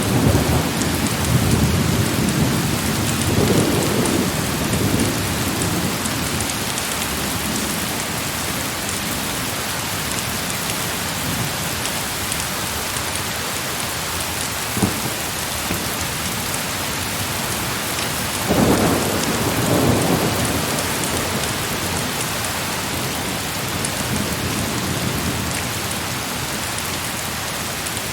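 Heavy rain falling steadily, with low thunder rumbles: one dying away over the first few seconds and another rolling in about two-thirds of the way through. A single short sharp crack about halfway through.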